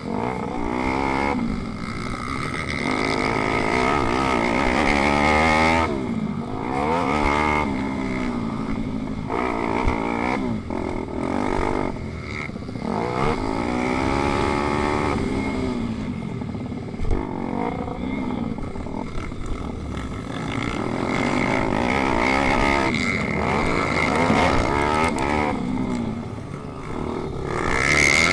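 Pitbike racing: small single-cylinder motorcycle engines running hard, their pitch climbing and dropping over and over as they rev up and back off.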